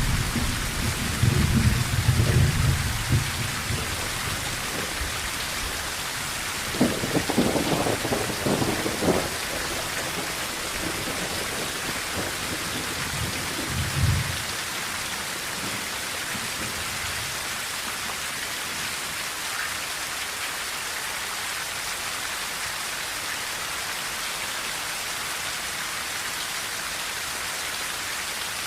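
Steady rain drumming on a tin roof with thunder: low rumbling in the first few seconds, a crackling peal about seven seconds in, and a short rumble around fourteen seconds, after which only the rain continues.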